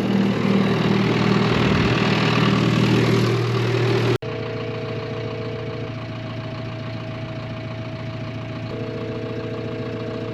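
Engine running steadily, then after a sudden cut a quieter engine idle under a phone's ringback tone, which sounds twice for about two seconds each time before the call is answered.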